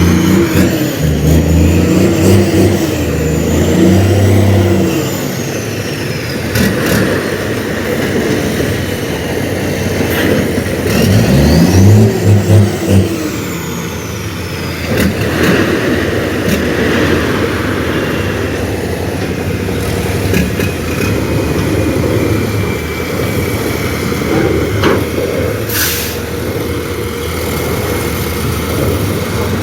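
Heavy dump truck diesel engines running, revving up and down in the first few seconds and again near the middle, with a steady engine rumble between and a few sharp clanks.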